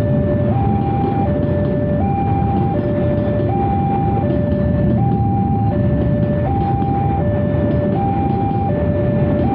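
Container freight train rolling slowly with a steady low rumble. Over it, a two-tone electronic warning alarm alternates high and low, each tone lasting about three-quarters of a second.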